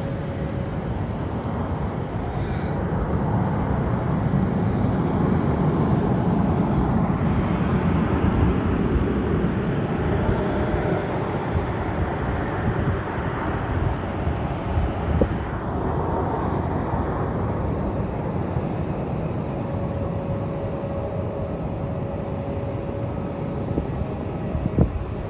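Jet engines of a Boeing 737 airliner on its landing approach. The rumble builds a few seconds in, is loudest through the middle, and eases off in the second half.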